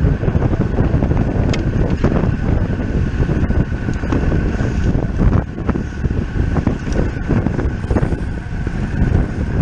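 Wind rushing and buffeting over the microphone of a road bike moving at race speed, with a faint steady whine and a few scattered light ticks.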